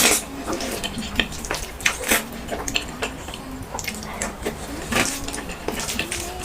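Close-miked eating sounds: wet chewing and smacking with many small irregular clicks and crackles.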